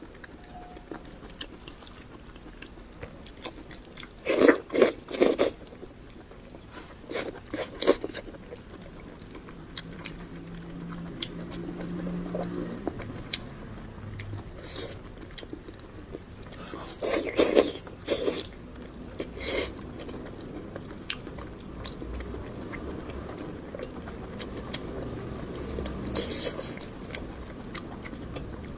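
Close-up eating sounds: a person biting and chewing crunchy food, with several loud bursts of crunching bites (about four to five seconds in, around seven to eight seconds, and again around seventeen to eighteen seconds) and quieter chewing between them.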